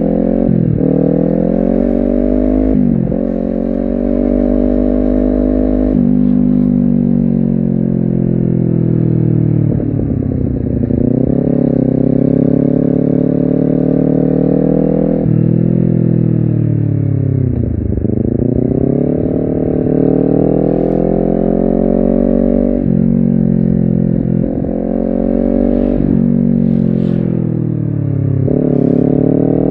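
Honda CBR250RR motorcycle engine and exhaust under way, revs climbing through the gears and dropping sharply at each upshift several times. Twice the revs sink for a longer stretch as the bike slows before pulling hard again.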